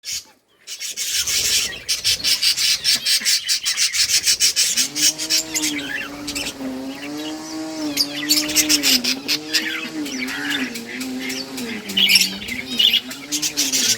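Budgies chirping and chattering rapidly, many quick high chirps overlapping. About four to five seconds in, a low wavering hum joins underneath and keeps sliding up and down in pitch.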